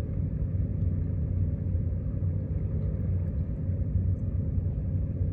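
Steady low outdoor rumble with no distinct events, with nothing standing out above it.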